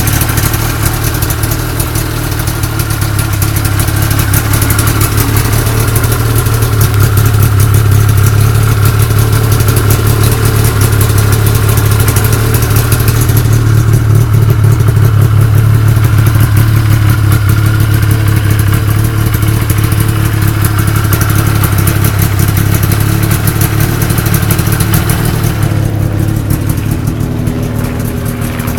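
A 1979 Ski-Doo Blizzard 5500 snowmobile's two-stroke engine running steadily under way. It gets louder a few seconds in and eases off near the end.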